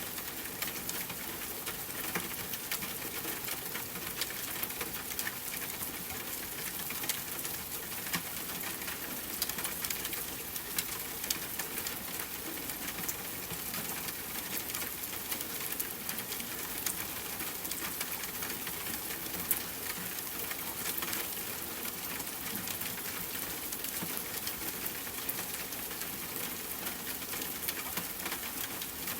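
Steady rain pattering on tent fabric, mixed with scattered sharp crackles and pops of a campfire.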